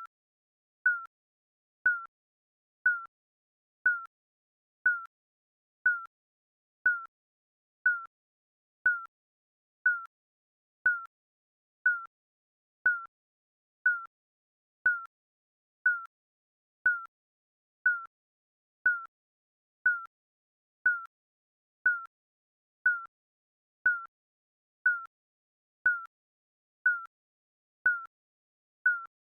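Digital countdown timer beeping once a second: a short, high electronic blip that dips slightly in pitch, marking each second as it counts down.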